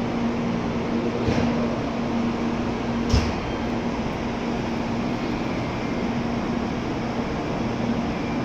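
Steady hum with one constant low tone from a Shinkansen train standing at the platform, its air-conditioning and onboard equipment running. There is a short knock about a second in and a louder one about three seconds in.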